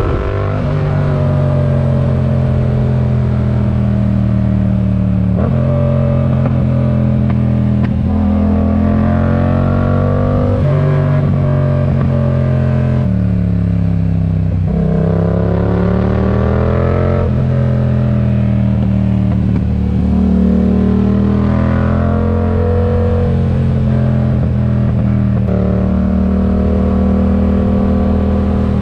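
Yamaha MT-07's parallel-twin engine through a RoadsItalia aftermarket exhaust, under way on the road. The engine note rises and falls with throttle and gear changes, dropping low about halfway through and then climbing again.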